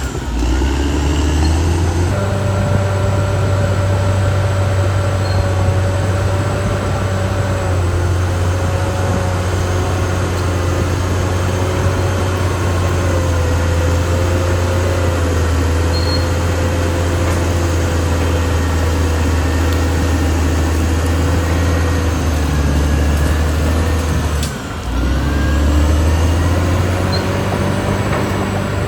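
Caterpillar D6R XL bulldozer's diesel engine running steadily under load, with a deep hum and a wavering whine over it. The sound dips briefly about 25 seconds in, then picks up again.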